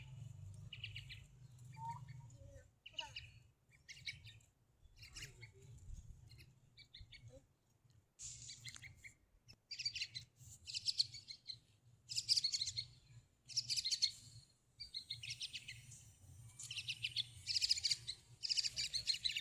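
A tame pet bird chirping in a string of short, scratchy calls, sparse at first, then louder and about once a second from about halfway through.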